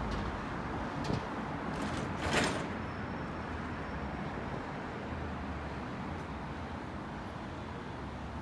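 Steady running noise of a bus with low rumble, and a short burst of hiss about two and a half seconds in.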